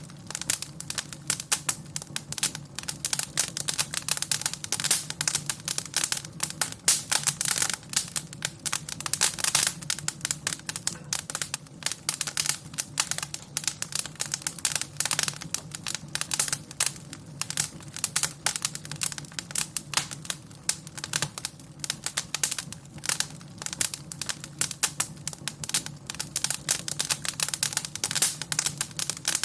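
Wood fire crackling in a fireplace: a dense, irregular run of sharp pops and snaps over a steady low rumble of burning.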